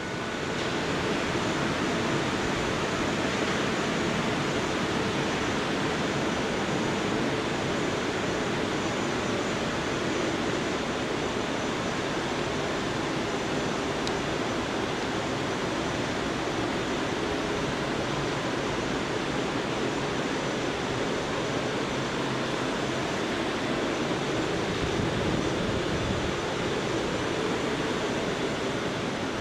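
An R179 subway train running at speed with a steady rolling roar of wheels on rail, with a faint high whine over it.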